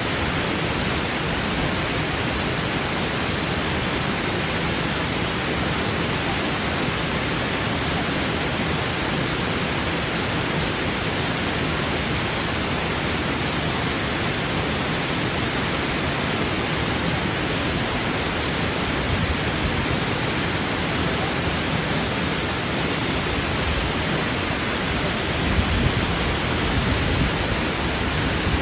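Waterfall crashing: a steady, even rush of falling water.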